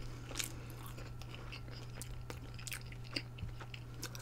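A person chewing food, with scattered soft mouth clicks and smacks, over a steady low hum.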